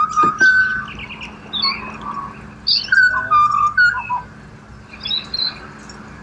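Pied butcherbirds singing: a run of clear, flute-like whistled notes, some held and some gliding, busiest in the first few seconds and then thinning out.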